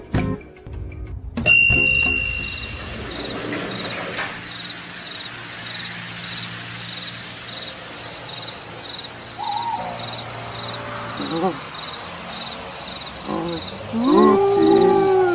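Music cuts off and a single bright bell-like ding rings for about a second and a half. Then a night-time ambience follows: crickets chirping steadily, a couple of short calls, and an owl hooting near the end.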